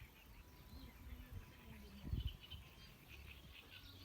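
Faint bird chirps over quiet outdoor ambience, with a short dull low thump about two seconds in.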